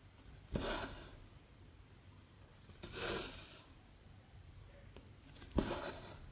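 Needle piercing cross-stitch fabric and cotton embroidery thread drawn through it with a rasping swish, three times about two and a half seconds apart.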